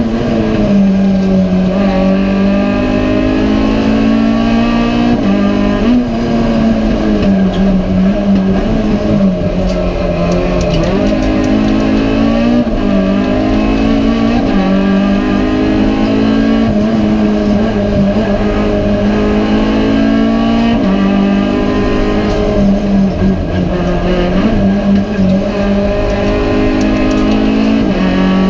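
Renault Clio RS Cup race car's four-cylinder engine heard from inside the stripped cabin at full racing pace. It revs up and climbs in pitch, then drops back at each gear change or lift, over and over.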